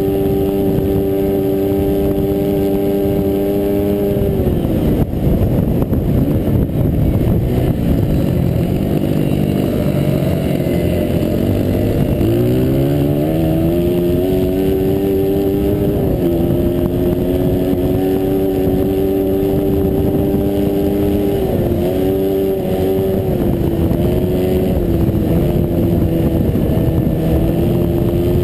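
Dirt track racing motorcycle engine heard from on board the bike, held at high revs. About four seconds in the revs drop off, then climb again from about twelve seconds as the throttle opens. The engine holds high again, with a couple of short dips near the end.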